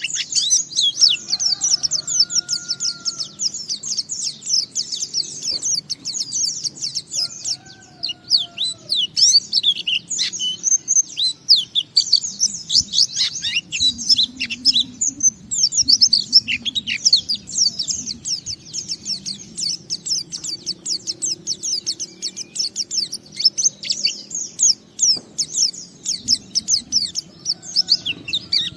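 White-eye (pleci) singing a long, unbroken run of rapid high chirps and twittering trills, the 'ngalas' style of song used to set other pleci singing.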